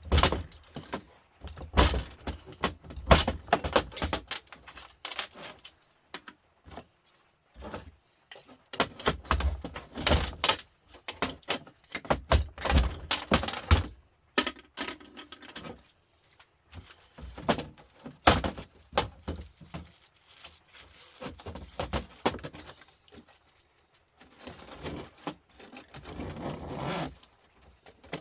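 Scrap copper and aluminium radiator parts being pulled apart and handled: irregular metallic clinks, rattles and knocks.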